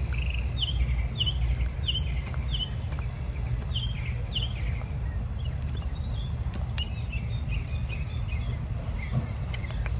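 Songbirds chirping outside: a run of short, quick downward chirps, about two a second, in the first few seconds, then scattered chirps, over a steady low rumble.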